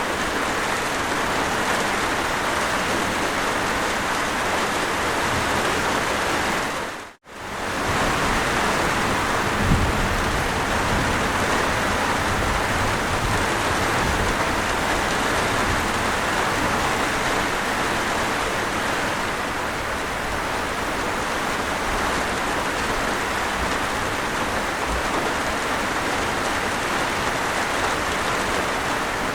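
Steady rain falling. About seven seconds in, the sound fades out to near silence for a moment and then comes back, with a deeper low rumble after it.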